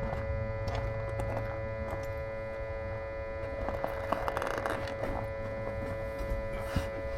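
Smoke leak detector running while it fills the exhaust with smoke, giving a steady electric hum with a constant whine. A few faint clicks and a brief rustle about four seconds in.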